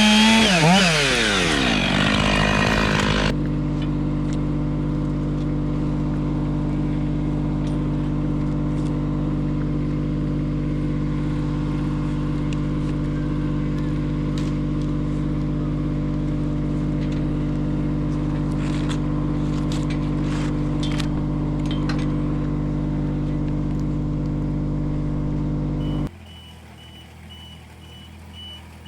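A chainsaw revving and winding down, then a steady engine drone holding one speed for about twenty seconds. Near the end the drone cuts off abruptly, leaving a quieter background with a faint, evenly repeating high beep.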